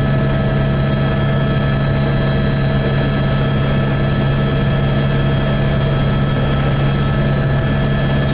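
Helicopter in steady cruising flight: a continuous loud drone of rotor and turbine with several unchanging whining tones over it.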